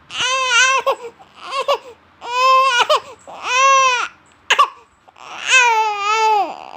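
A baby fussing and crying in a string of high-pitched whiny calls, about six of them, the last one longest and falling away at the end.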